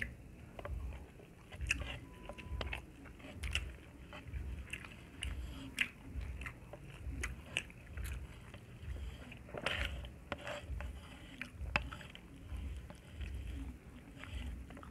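Close-miked chewing and biting of saucy pork: a steady chewing rhythm of about three chews every two seconds, with wet mouth smacks and clicks over it.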